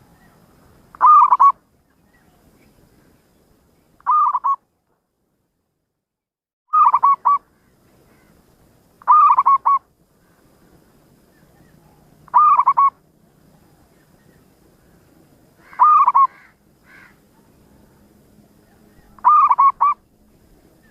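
Zebra dove (perkutut) cooing: seven short bursts of a few quick, clipped notes, repeated about every three seconds.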